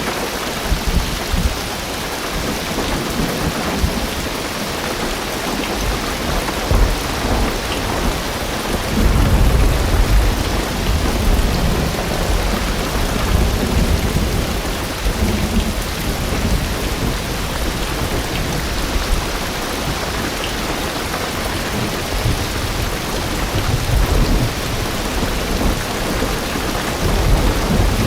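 Heavy rain drumming steadily on a car's roof and windows, heard from inside the car, with low rolling rumbles of thunder that swell loudest about a third of the way in.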